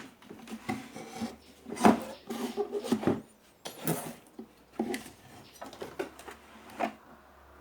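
Irregular knocks, clicks and scraping from tools and parts being handled during disassembly of a home theater amplifier unit, a few of the knocks ringing briefly.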